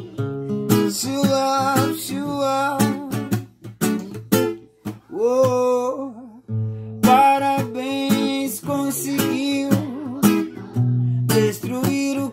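Acoustic guitar strummed in a steady rhythm, with a voice singing over it without clear words, briefly pausing about six seconds in.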